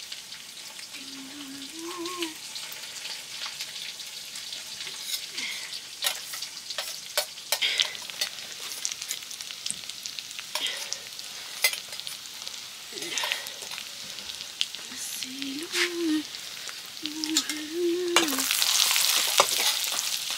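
Food frying and sizzling in a pan as it is stirred, with frequent sharp clicks and scrapes. Near the end the sizzling becomes much louder.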